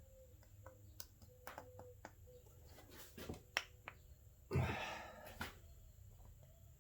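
Wiring-harness electrical connectors being pushed onto the new camshaft position actuator solenoids: a scatter of small plastic clicks, with a louder snap about four and a half seconds in as a connector seats.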